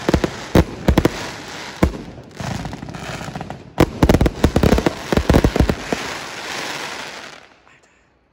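An aerial fireworks display in its last salvos: rapid shell bursts with sharp bangs in two clusters, with dense crackling from glittering stars between and after them. The crackling dies away about a second before the end.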